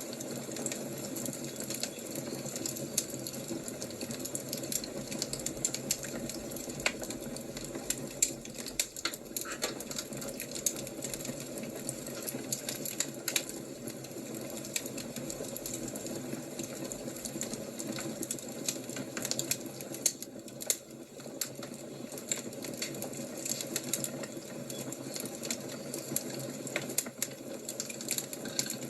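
Fire crackling steadily: many small sharp pops and snaps over a continuous soft hiss.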